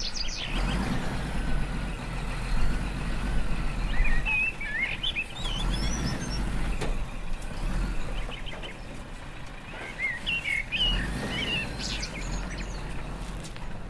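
Birds chirping in short bursts of quick rising and falling notes over a steady low engine-like hum that swells and eases.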